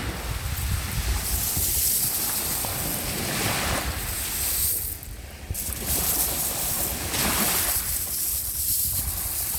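Small sea waves washing and sloshing at the shore, in repeated hissing surges every couple of seconds, over a steady low rumble of wind on the microphone.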